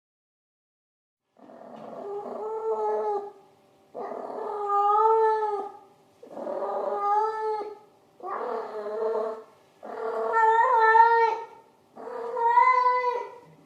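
Domestic cat meowing: six long, drawn-out meows in a row, about one every two seconds, starting after a second and a half of silence.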